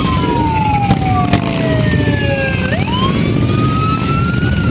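Vehicle siren wailing: a slow fall in pitch, then a quick rise about two and a half seconds in and a slow climb, over a steady low rumble.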